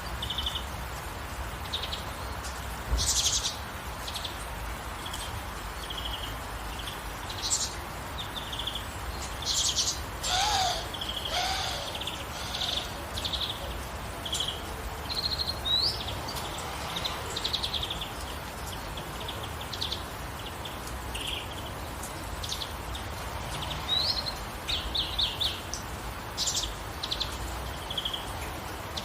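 Songbirds chirping and trilling in short, frequent calls over a steady hiss of gentle rain, with a lower gliding call about ten seconds in.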